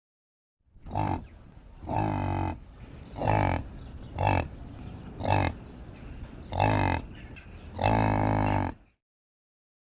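Cow mooing: seven short, low calls one after another, the last a little longer.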